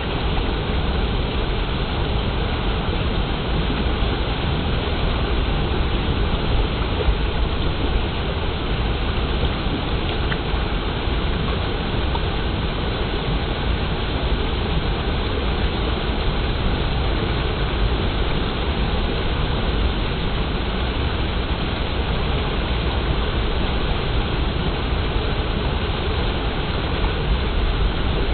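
Clear stream water flowing and rushing in a steady, unbroken wash of sound, heavy in the low end.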